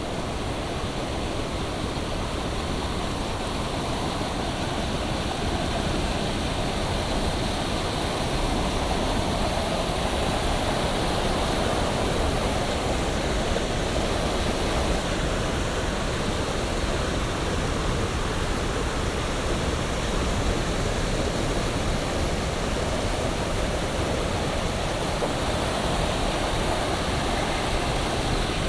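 Steady rushing noise of water, growing slightly louder over the first several seconds and then holding even.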